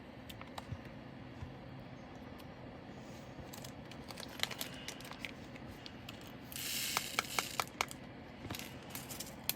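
Small plastic diamond-painting drills clicking and rattling as they are handled and poured, with scattered sharp ticks. About two-thirds through, a small plastic drill bag crinkles for about a second.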